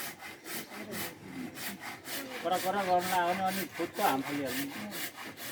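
Hand saw cutting through the wood of a Ficus tiger bark tree, in quick, even back-and-forth strokes, about four to five a second.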